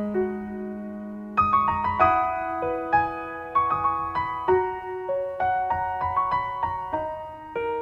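Soft, slow piano music: single struck notes and chords ringing out.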